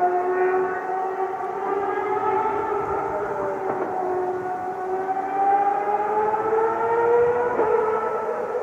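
Ferrari track car engine running at high revs, a sustained high note that dips slowly and then climbs again as the car works through the circuit.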